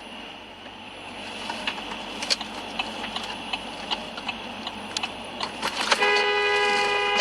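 Road traffic noise with scattered clicks and knocks, then a car horn sounds once near the end, held steady for about a second and a half.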